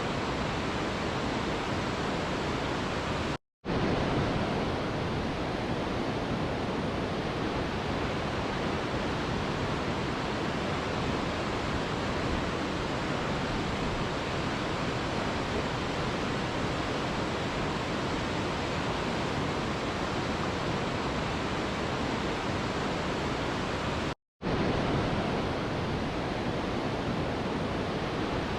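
Mountain river rushing steadily, a dense, even sound of flowing water. It cuts out to silence for a split second twice, once a few seconds in and once near the end.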